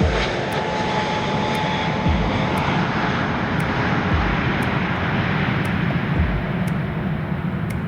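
Airliner engines running loud and steady as the aircraft passes close by, a continuous rumbling roar with low thumps about every two seconds.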